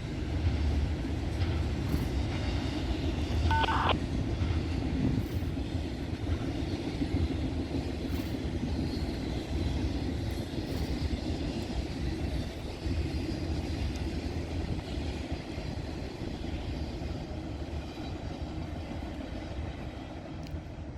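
Train cars rolling past on the rails, a steady rumble that slowly fades as the last cars go by.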